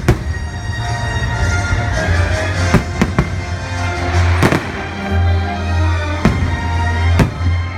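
Orchestral music playing loudly, cut by the sharp bangs of aerial firework shells bursting, about six of them spread across the few seconds.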